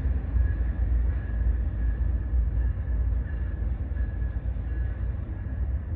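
Amtrak passenger train rolling past: a steady low rumble of wheels on rail with a faint high whine coming and going, slowly fading as the train draws away.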